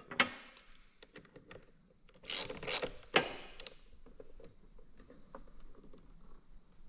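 Hands working with parts and hardware: scattered clicks and knocks, the loudest a few sharp ones about three seconds in, with light rubbing and rustling between.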